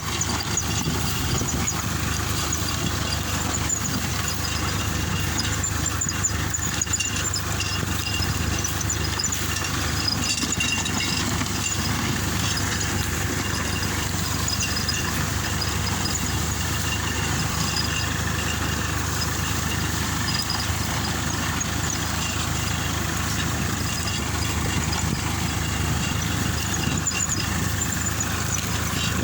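Swaraj 963 tractor's diesel engine running steadily.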